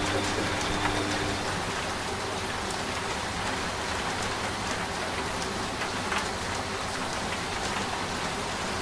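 Steady rain falling with scattered drop ticks, mixed with the low hum of a washing machine that fades out about a second and a half in.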